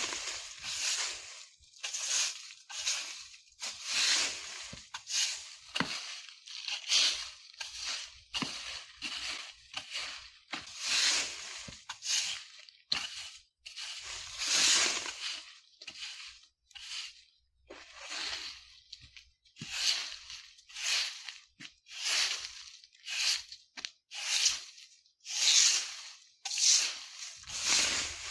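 A broom sweeping dry autumn leaves on the ground: repeated rustling, crunching strokes, roughly one a second at an uneven pace.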